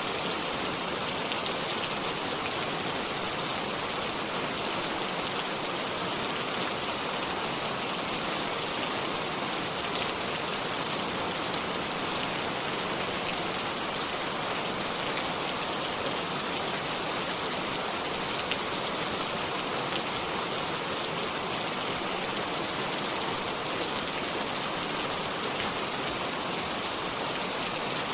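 Steady rainfall: a dense, even patter of raindrops hitting surfaces, with many small individual drop ticks and no thunder.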